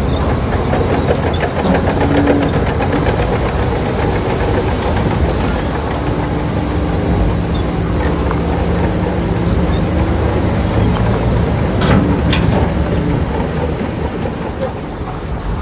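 Heavy diesel earthmoving machinery running steadily under load, with a few sharp clanks and knocks, about five seconds in and again about twelve seconds in.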